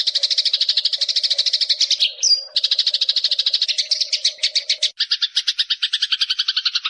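Eurasian tree sparrow calling: a fast run of high chirps, about ten a second, broken by one sharp note about two seconds in. Around five seconds in the chirping changes to a lower-pitched pattern, then cuts off suddenly at the end.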